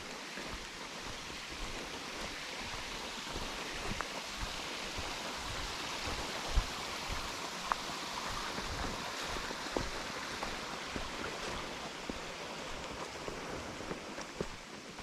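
A woodland stream running steadily, an even rush of water that swells a little through the middle, with a few soft knocks and one low thump about six and a half seconds in.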